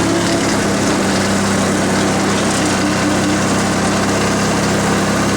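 A 16 hp Briggs & Stratton opposed-twin engine on a Yardman lawn tractor running at a steady speed while the tractor drives along in third gear, fitted with a good muffler.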